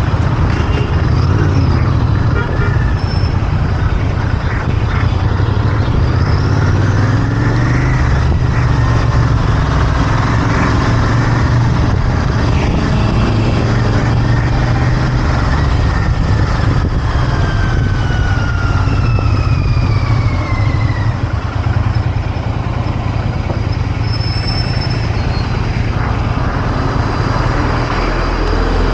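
Royal Enfield Interceptor 650's 648 cc parallel-twin engine and exhaust running steadily under way, heard from the rider's seat. Road traffic is mixed in, with a faint higher tone falling away slowly in the middle.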